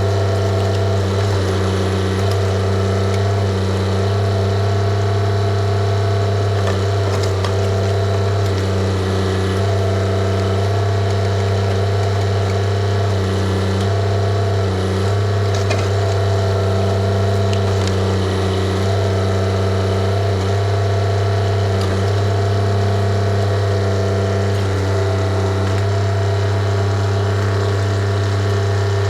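Diesel engine of a TYM compact tractor-backhoe running at a steady speed close up, with a few faint knocks over the engine noise.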